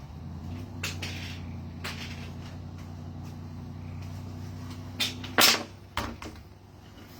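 A few sharp knocks and clunks, like a cupboard or door being handled, with the loudest a little past halfway. They sit over a steady low hum.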